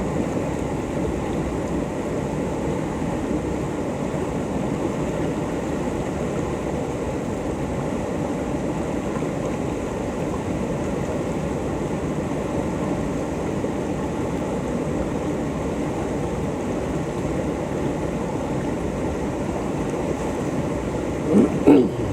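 Steady rush of river whitewater around a kayak running the river. A brief louder sound near the end.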